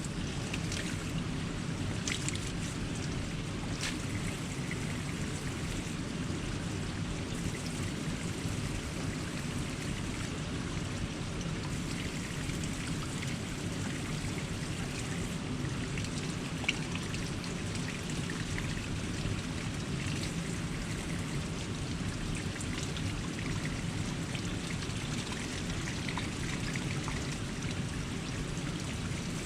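Cold mountain spring water running steadily from a bica, a natural spring spout, and pouring down.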